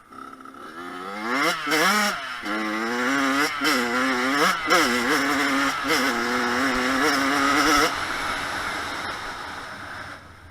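Kawasaki KX100 two-stroke dirt bike engine revving up and down repeatedly as it is ridden, growing louder over the first second or two. It drops off suddenly near the end and fades away.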